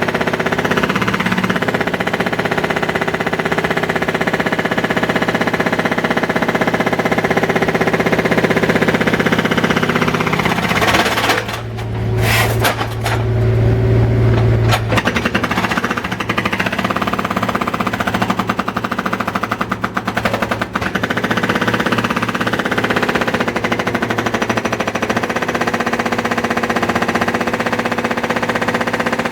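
Construction breaker on an MRT station worksite hammering rapidly and continuously, a loud rattling clatter. About twelve seconds in the hammering briefly lets up and a low engine drone comes forward for a few seconds before the hammering resumes.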